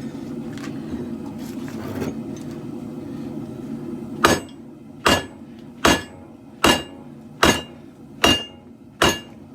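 Hand hammer striking hot katana steel on an anvil: seven even blows about 0.8 s apart, starting about four seconds in, each with a short metallic ring. Underneath, the propane forge burners give a steady low roar.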